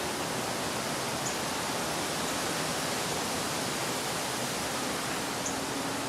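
Steady rushing hiss, with a bird's short high chip notes standing out three times: about a second in, faintly at two seconds, and again near the end.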